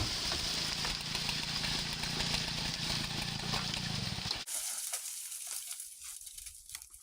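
Two-stroke chainsaw engine running steadily, cutting off abruptly about four and a half seconds in. Scattered faint crackles follow.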